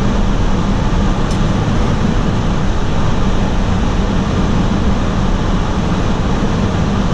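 Steady in-cabin road noise of a 2018 Toyota Tundra CrewMax pickup driving in four-wheel drive high on a snowy road: an even low rumble of engine and tyres, with a small tick about a second in.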